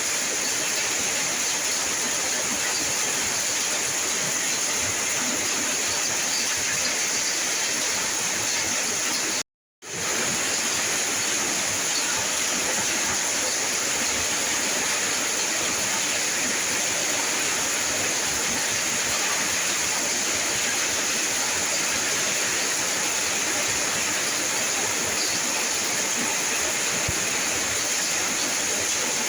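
Steady heavy rainfall, an even hiss of falling water, that drops out completely for about half a second about nine and a half seconds in and then resumes.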